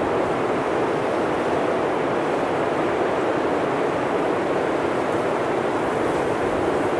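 Blizzard wind blowing steadily, with an even roar and no distinct gusts.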